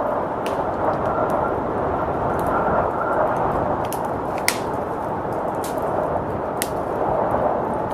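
Wood fire crackling with scattered sharp pops over the steady rushing noise of blizzard wind. The loudest pop comes about halfway through.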